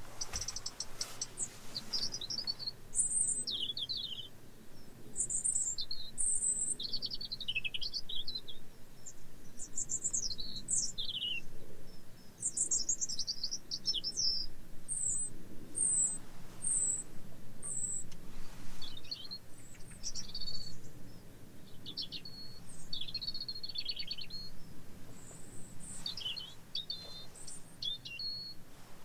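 European robin singing: a long run of high, varied warbling phrases, each a second or two long with short pauses between them.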